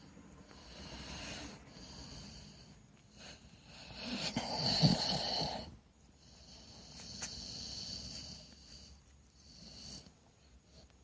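Bulldog snoring in its sleep: a few slow, drawn breaths, the loudest about four to six seconds in.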